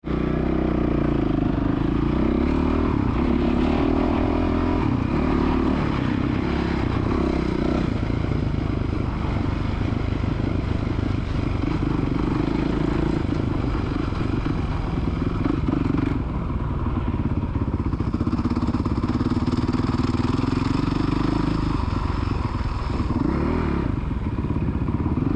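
Motocross dirt bike engine running and revving, its pitch rising and falling again and again as the throttle is worked.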